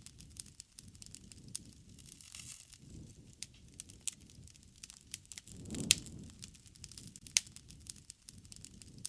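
Wood fire burning: a constant patter of small crackles with a few sharp pops, the loudest about six seconds in, over a soft low rushing of the flames.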